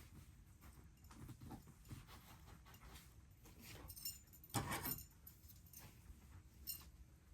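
Puppies moving about, with faint scattered rustling and clicking and a brief louder scuffle about four and a half seconds in.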